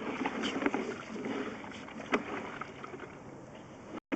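Sewer inspection camera's push cable being fed down through the cast-iron cleanout: irregular scraping and rustling with scattered clicks and knocks, the sharpest about two seconds in, easing off toward the end.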